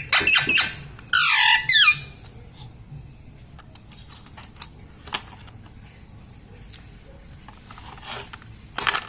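Indian ringneck parrot giving a run of loud, high, warbling calls and a harsh screech for about two seconds, then quiet apart from a few faint clicks, with another loud call just at the end.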